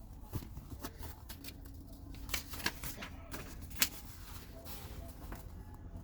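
Soft handling noises: scattered light clicks and rustles, the sharpest click a little under four seconds in, over a low steady hum.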